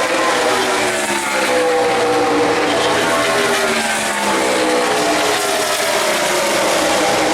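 NASCAR Sprint Cup stock cars with pushrod V8 engines passing at racing speed, one after another, each engine note falling in pitch as the car goes by, over the continuous drone of the rest of the field.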